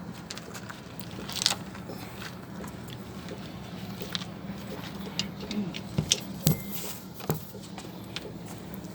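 Scattered clicks and knocks of hand work on the truck's engine parts, the loudest about a second and a half in and a cluster near six to seven seconds, over a steady low hum.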